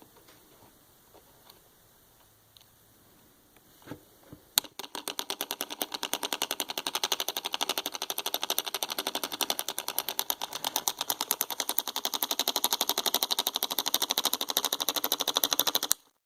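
Homemade miniature solenoid engine running: the small solenoid pulls its plunger in fast, even clicks, many times a second. A few faint taps come first, the engine picks up about four and a half seconds in, and it stops abruptly just before the end.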